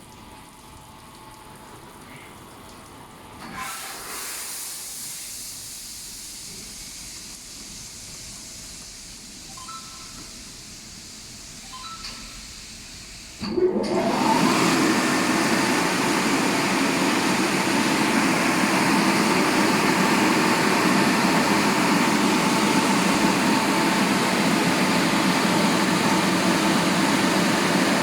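Touchless car wash machine working through its cycle: a softer rush of water spray at first, then about halfway a large motor starts with a short rising whine and settles into a loud, steady rushing blast.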